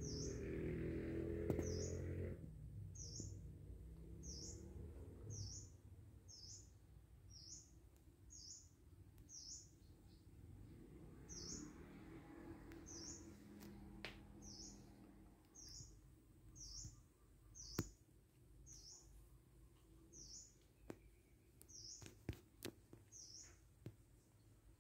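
A small bird repeating a single short, high chirp about once a second, with a low hum that stops about two seconds in and a few faint knocks near the end.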